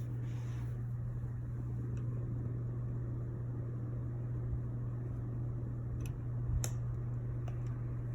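Hampton Bay Minuet ceiling fan running in reverse at medium speed on its wall control: a steady motor hum with air noise, and a couple of faint clicks about six seconds in.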